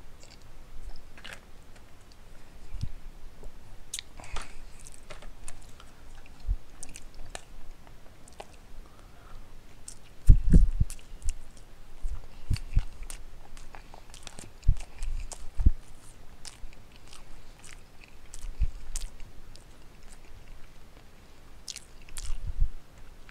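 Close-up chewing and wet mouth sounds of a person eating instant chicken ramen noodles, with scattered small clicks and several low thumps, the loudest about ten seconds in.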